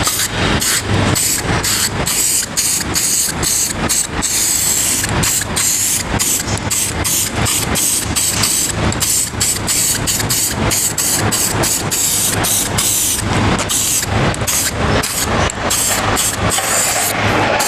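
Aerosol spray can of silver galvanising paint hissing in many short passes over a wheel, with a steady low hum underneath.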